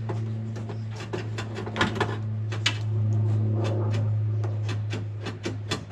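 Irregular sharp clicks and light knocks from door parts being handled and fitted inside a pickup truck door, over a steady low hum.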